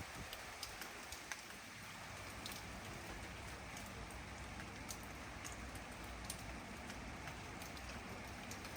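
Steady rain falling, with many scattered individual drops ticking sharply on nearby surfaces.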